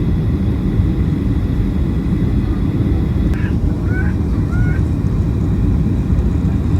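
Steady low rumble of a passenger airliner's cabin noise, with a faint high whine that stops about halfway through.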